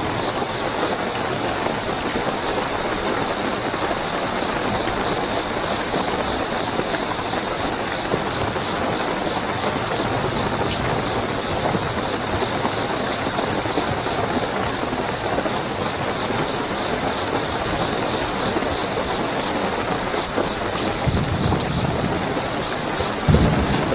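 Steady heavy rainfall with a continuous high-pitched chorus of night crickets over it. A brief low rumble comes near the end.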